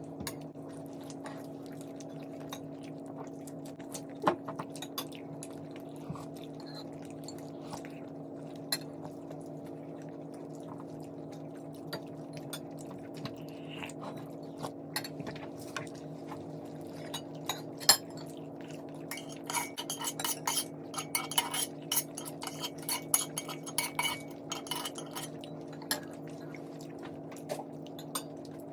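Cutlery clicking and scraping against a plate as food is eaten, in scattered taps that grow busier about two-thirds of the way through, over a steady low hum.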